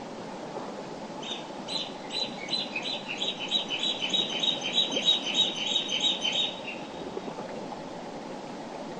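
A small songbird sings a rapid run of repeated high notes, about four a second, for some five seconds, over the steady rush of a mountain river.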